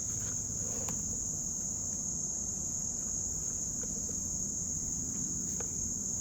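Steady high-pitched chorus of insects such as crickets, unbroken throughout, with a few faint clicks over it.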